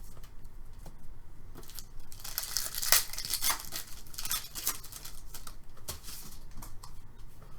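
Trading-card pack wrapper being torn open and crinkled, with cards rustling and sliding as they are handled: a run of quick, irregular crackles, busiest about two to four seconds in.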